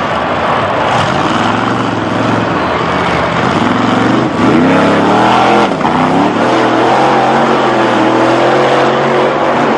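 Monster truck engine running loud and revving: the pitch climbs about four seconds in, drops sharply just before six seconds, then holds steady at a higher speed.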